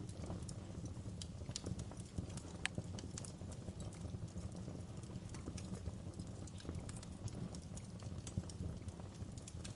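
Wood fire burning in a fireplace: a steady low rumble of flames with irregular crackles and pops throughout, one sharper pop nearly three seconds in.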